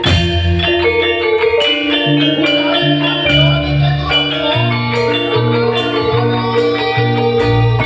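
Live Javanese gamelan-style music: struck mallet instruments play a melody in quick notes over a low bass line that moves in steps.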